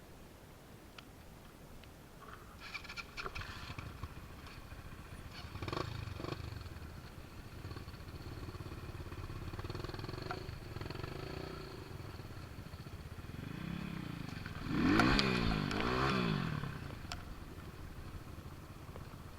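Motorcycle engine running and being revved, with a burst of quick up-and-down revs about three-quarters of the way through that is the loudest part.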